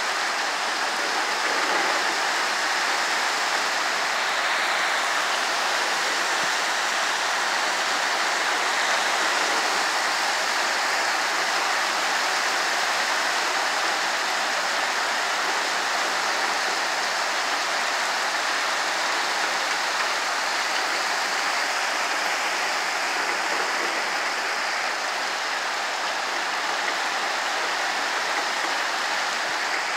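Heavy rain in a storm, pouring down steadily as an even, unbroken hiss.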